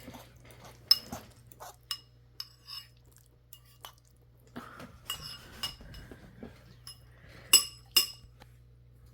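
Metal cutlery clinking against dishes while eating: a dozen or so irregular, ringing clinks, the two loudest close together near the end.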